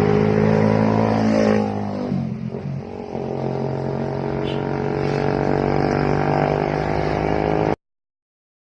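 A motor vehicle engine running steadily. Its pitch drops about two seconds in, and the sound cuts off abruptly near the end.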